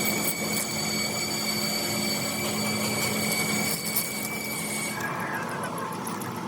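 A machine tool running steadily, with a low hum and several high, steady whines; about five seconds in the sound changes abruptly to a different, rougher machining noise.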